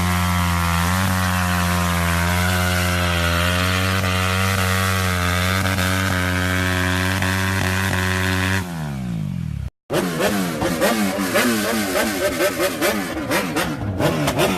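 Motorcycle engine running at a steady pitch, then its pitch drops quickly as it slows. After a brief moment of silence, a motorcycle engine revs up and down repeatedly.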